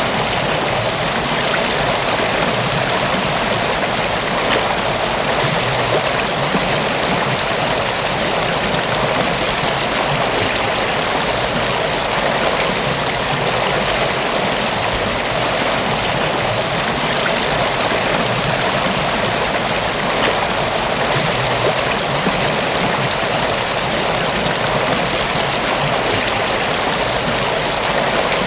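Water of a mountain waterfall and stream rushing steadily, an even, unbroken noise of falling and running water.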